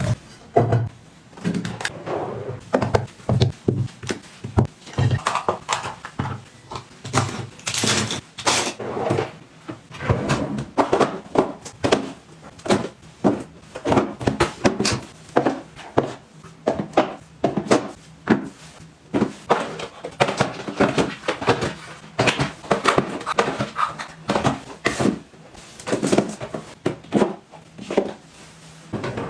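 Small containers and products being picked up and set down on a hard surface while being organised: irregular taps, clicks and knocks, with short bursts of clatter.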